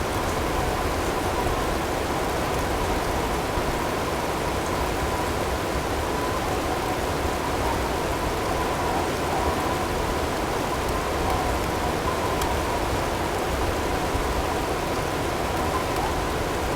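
Blizzard ambience: a steady, even rush of storm wind and driven snow, with a faint whistling tone held near one pitch above it.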